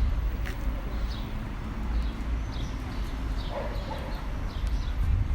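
Small birds chirping repeatedly over a steady low rumble of outdoor background noise, with a brief lower call about three and a half seconds in.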